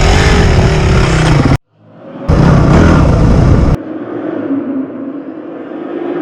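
Honda CRF250X single-cylinder four-stroke dirt bike engines running, the pitch rising and falling with the throttle. The sound cuts out abruptly to silence about a second and a half in. It returns just as loud, then drops suddenly to a quieter, steady engine note for the last few seconds.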